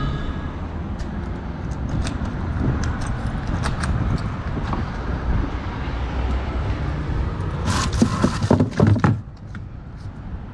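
Handling around a car: scattered clicks and clunks over a low rumble, then a run of loud knocks about eight to nine seconds in, after which it goes quieter.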